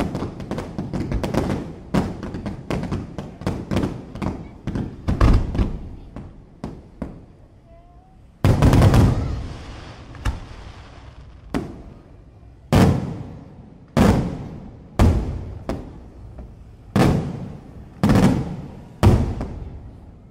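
Daytime aerial fireworks: a rapid, crackling string of bangs for the first six seconds, then one heavy blast a little past the middle, followed by single loud reports about once a second, each dying away in an echo.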